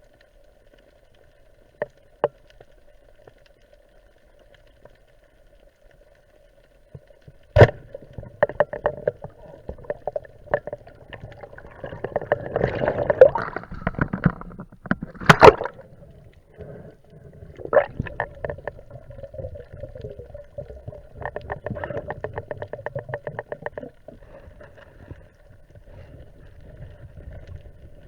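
Underwater sound on a spearfisher's camera: a steady hum with sharp clicks and knocks, a stretch of crackling bubbling, and a fast run of rattling ticks near the end.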